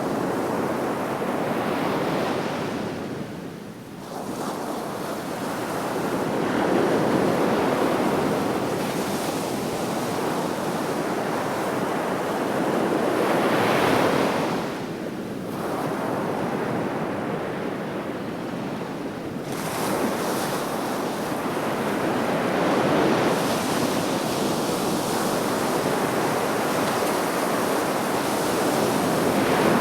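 Sea waves breaking and washing on the shore, a continuous surf that swells and ebbs every several seconds, with some wind on the microphone.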